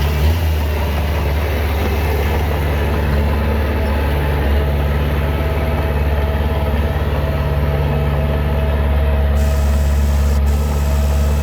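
Heavy construction-machine diesel engine running steadily at a low, even pitch.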